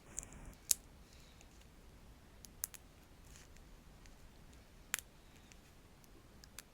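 Wooden sticks being handled, giving about six sharp, irregularly spaced wooden clicks, the loudest just under a second in, with faint scratching between them.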